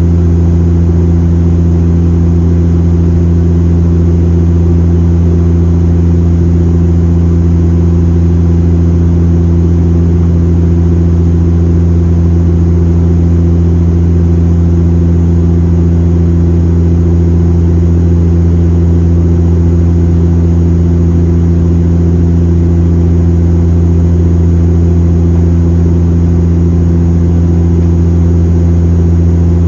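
Airliner cabin noise in flight: a loud, steady low drone of the aircraft's engines and airflow, unchanging throughout.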